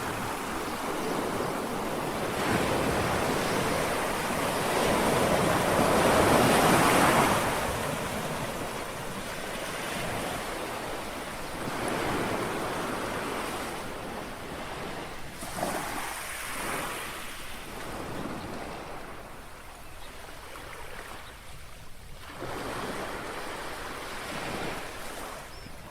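Sea waves washing onto a shore in a steady rushing wash, swelling to a louder surge about six seconds in and then ebbing in smaller surges.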